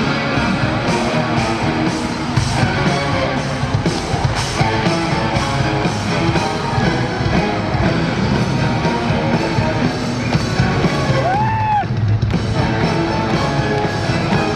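Live hard-rock band with electric guitars and drum kit, backed by an orchestra, playing loudly. About eleven seconds in, one pitched note bends up and back down, and the music thins for a moment just after it.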